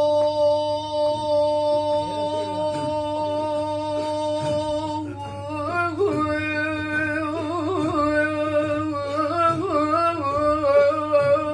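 A male voice sings a devotional madeeh melody without words: it holds one long steady note for about five seconds, then moves into a wavering, ornamented run of notes that bends up and down.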